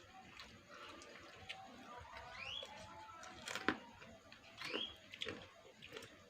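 Faint eating noises, soft mouth clicks and smacks from chewing, with a bird chirping in the background: a short rising call about every two seconds.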